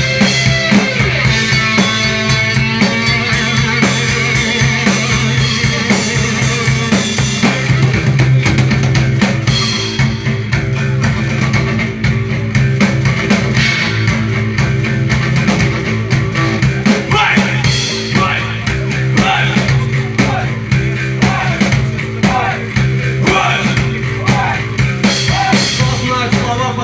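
Rock band playing an instrumental passage, drum kit with bass drum and snare driving a steady beat over sustained bass.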